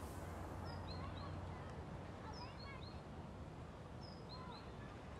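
Quiet outdoor ambience with a songbird singing three short phrases of high chirps, one every second and a half or so, over a low steady background hum.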